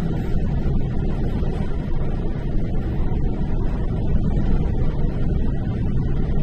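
Steady road and engine noise of a moving car heard from inside the cabin, a low, even rumble with no distinct events.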